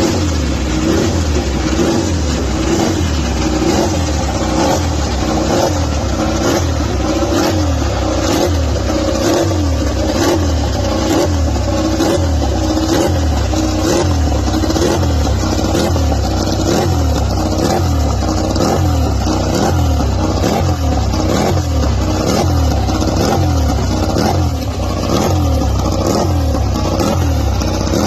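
Ducati Desmosedici V4 racing engine revved again and again in a steady rhythm, its pitch rising and falling about one and a half times a second.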